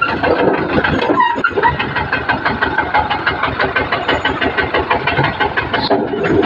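Old tractor engine idling with a rapid, even knocking beat.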